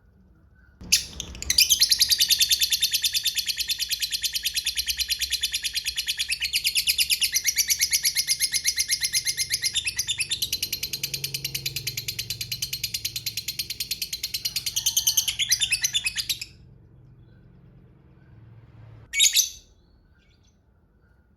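Lovebird giving a long, rapid chattering trill, the drawn-out 'ngekek panjang' call prized by keepers, lasting about fifteen seconds, followed by one short call near the end.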